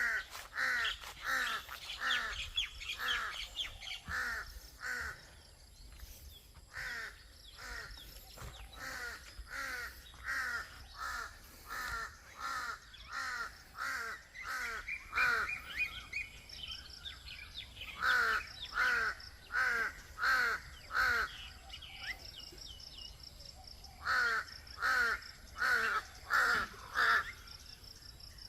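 Birds calling: one keeps up long runs of short, harsh, repeated notes, about two a second, with brief pauses, while higher whistled notes from other birds sound in between, among them a rising whistle about halfway through.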